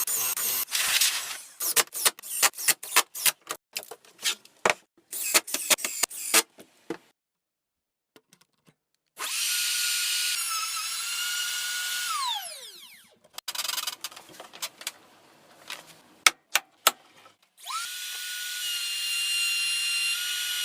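Electric drill motor running at a steady high whine, winding down with a falling pitch, then spinning up again and holding steady. Before and between the runs come strings of sharp taps and clicks.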